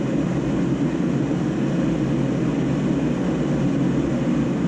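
A steady low drone of background noise with no breaks or clicks in it.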